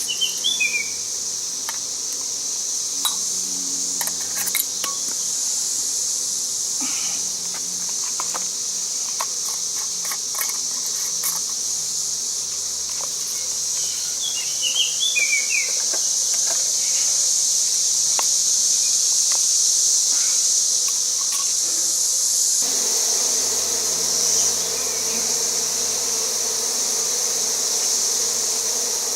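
Honey bees buzzing around a small hive box in a low steady hum, under a steady high-pitched insect trill. A bird chirps briefly just after the start and again about 15 seconds in.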